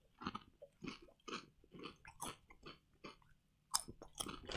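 Potato chips being chewed, a crisp crunch about twice a second with a short pause near the end.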